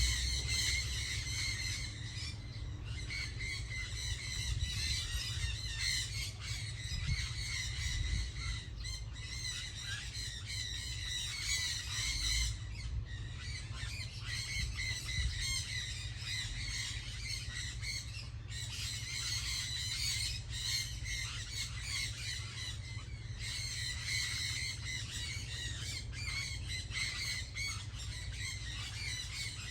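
A flock of birds calling at once: a dense, continuous chatter of short squawking calls. A steady low rumble runs underneath.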